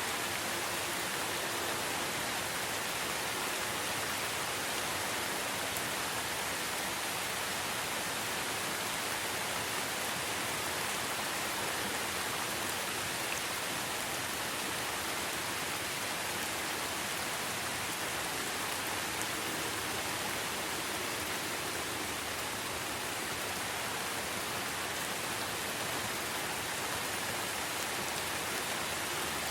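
Steady rain falling in a forest, an even hiss with faint scattered drop ticks.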